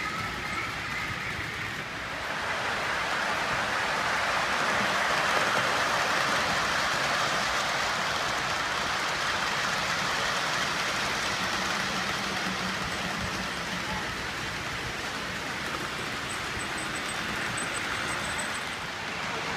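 Model train running on the layout track: the steady rolling rush of its wheels on the rails swells as it comes nearer, then slowly fades.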